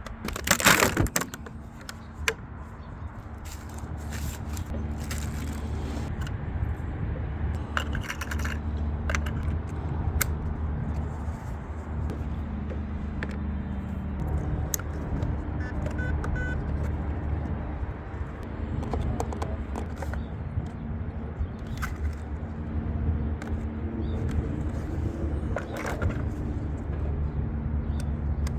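Scattered clicks and scrapes of packaging and parts being handled, the loudest about a second in, over a steady low hum.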